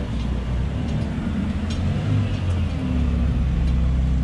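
A car engine running nearby, a steady low rumble that grows a little louder near the end.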